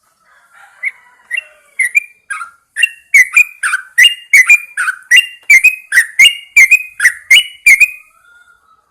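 Yellow-vented bulbul singing: a run of short whistled notes, a few soft ones at first, then loud and regular at about three a second from about three seconds in, stopping shortly before the end.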